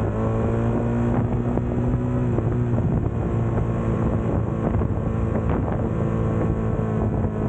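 Suzuki GSX-S150's single-cylinder four-stroke engine running under way, with wind buffeting the microphone. The engine note holds fairly steady, dips briefly about two and a half seconds in, then settles again.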